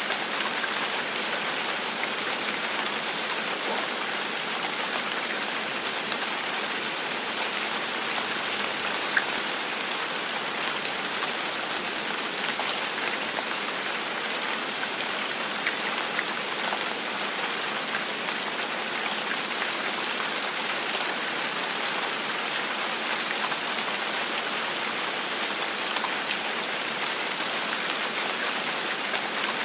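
Steady gentle rain falling on a surface, an even hiss with scattered individual drop ticks and no thunder.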